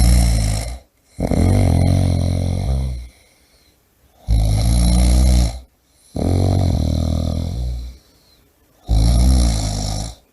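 A person snoring loudly and rhythmically. Each breath brings a shorter rattling snore followed by a longer one, then a brief pause, about every four and a half seconds.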